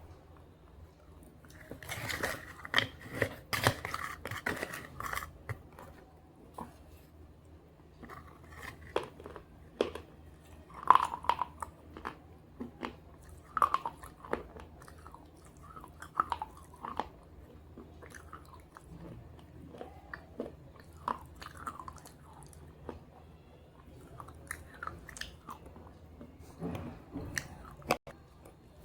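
Close-up crunching and chewing of slate pieces coated in red gravy: sharp bites and crunches, densest about two to five seconds in, then scattered crunchy chews.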